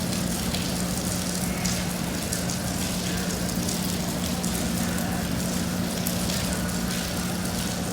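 Rain falling steadily, with a constant low hum underneath.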